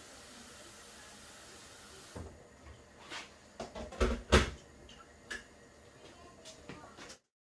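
Kitchen objects being handled: after a faint steady hiss, a run of sharp knocks and clicks, the two loudest about four seconds in, then the sound cuts off abruptly.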